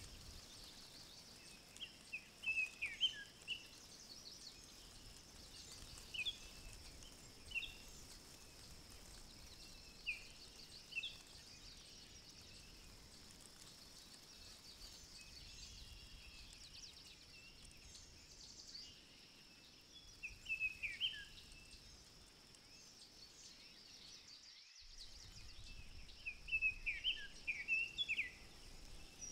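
Woodland ambience: small birds giving short chirping calls in scattered bursts every few seconds, over a faint steady high-pitched hiss.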